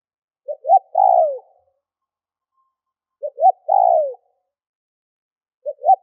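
Spotted dove cooing: a repeated phrase of two short rising notes followed by a longer note that falls in pitch, about every two and a half seconds, twice, with a third phrase starting at the end.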